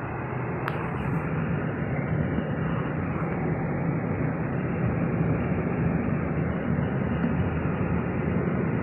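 Steady road and engine noise of a car being driven, heard from inside the cabin, with a single sharp click about a second in.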